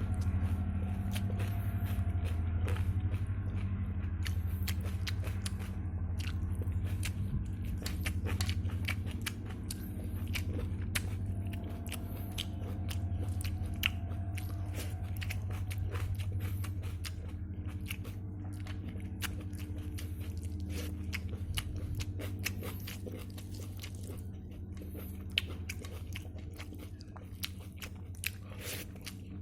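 A person chewing and eating a meal of dal and rice up close, with many short wet mouth clicks and smacks throughout, over a steady low hum.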